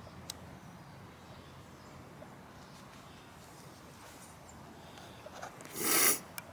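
A short, loud hiss lasting under half a second near the end, over quiet background, with a faint click just after the start.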